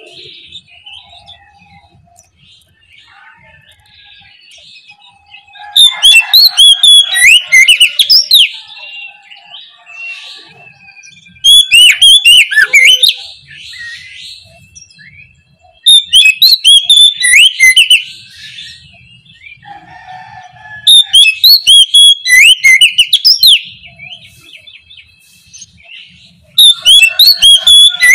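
Oriental magpie-robin (kacer) singing in loud phrases of rapid, varied whistles and trills, five phrases a few seconds apart, with softer notes between them.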